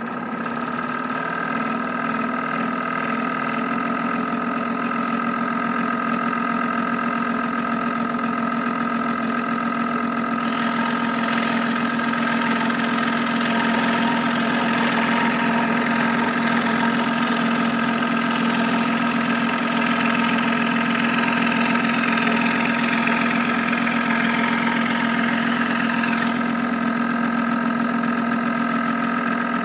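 Craftsman 16-inch variable-speed scroll saw running with a steady motor hum and vibration. From about a third of the way in until near the end, a rasping noise joins it as the blade cuts through a 3/4-inch piece of scrap wood. The vibration is put down to a cheap machine that has not been tightened down and a blade that is not yet tensioned.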